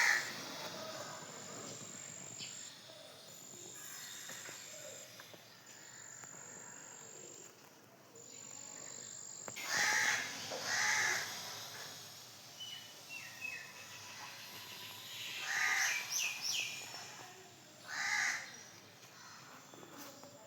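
A crow cawing outdoors: about five harsh caws spread out, two close together around ten seconds in and two more in the later part, with faint chirps of smaller birds in between.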